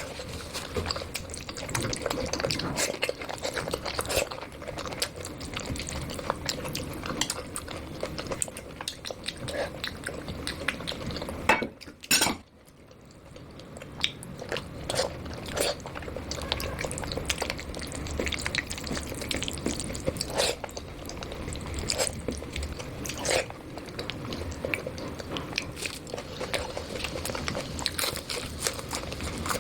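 Close-miked eating sounds of khichdi with ghee: wet mixing and chewing with many small clicks against a plate, briefly broken off about twelve seconds in.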